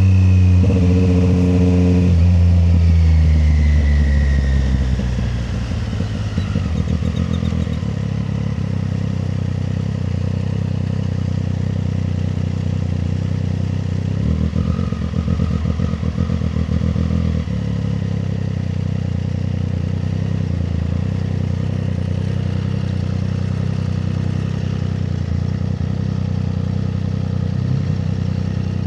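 Triumph Street Triple 765 RS's inline three-cylinder engine, heard from the rider's seat. It slows from a high note over the first few seconds, then runs steadily at low revs, briefly getting rougher around the middle.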